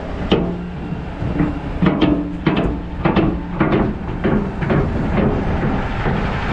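Diesel dump truck driving slowly over a rough, rutted pit road: the engine runs steadily under a string of clunks and rattles from the truck and its dump body jolting over the bumps.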